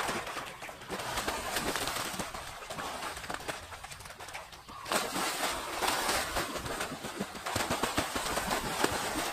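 Birds calling, over a busy crackle of many short taps and scrapes.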